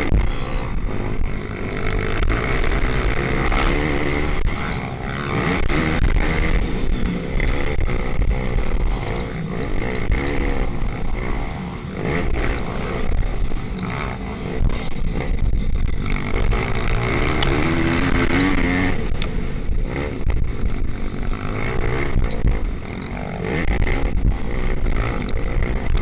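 Pitbikes racing: small single-cylinder motorcycle engines revving up and down repeatedly as they accelerate and back off around the track.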